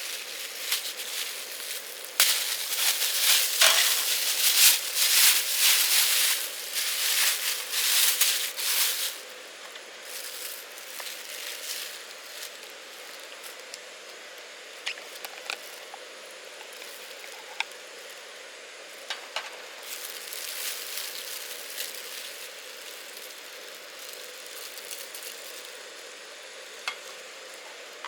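Food sizzling in hot fat, loud for several seconds a couple of seconds in, then dying down to a softer hiss with scattered small pops, and swelling again briefly about twenty seconds in.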